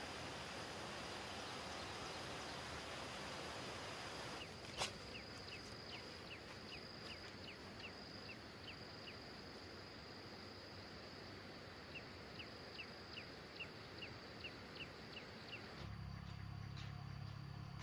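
Bird calling in two runs of short, falling chirps, about three a second, over a steady high insect drone and a low hiss. A single sharp click comes about five seconds in, and a low rumble starts near the end.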